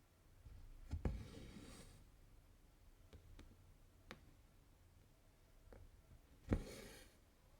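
Needle and cotton thread being worked through cross-stitch fabric: twice a sharp tap as the needle goes through, each followed by a brief swish of the thread pulled through, with a few small ticks in between.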